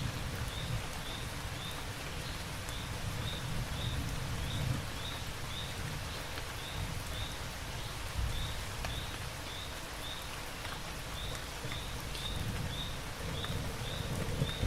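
Steady rain with a low rumble underneath, and a short high chirp repeating about twice a second.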